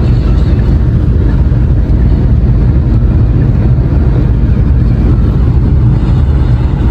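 Steady, loud low-pitched road and engine noise inside a moving taxi.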